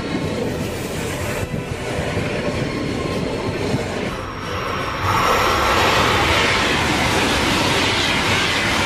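Italo AGV high-speed electric train passing at speed: a steady rush of wheels on rails and air, growing louder about five seconds in.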